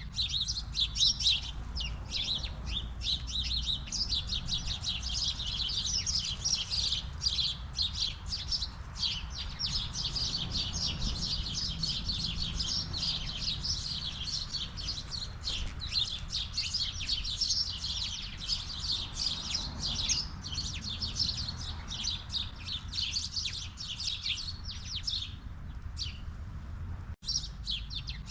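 A flock of house sparrows chirping constantly, many short calls overlapping, broken off briefly about a second before the end.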